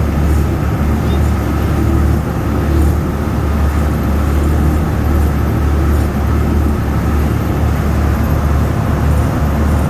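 Amphibious duck boat's engine running steadily under way on the river, a continuous low rumble.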